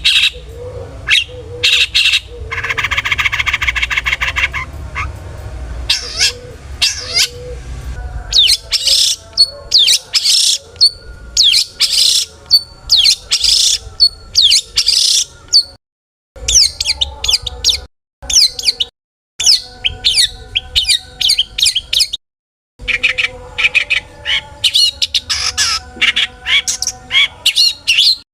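Long-tailed shrike (cendet) singing a loud, fast, varied song packed with mimicked calls: sharp chirps and harsh squawks, with a rasping buzz near the start. The song breaks off abruptly into silence a few times.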